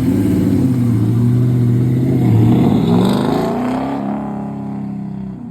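A car engine revving hard as it accelerates away and passes by. Its pitch climbs a little past two seconds in, then drops as it fades into the distance.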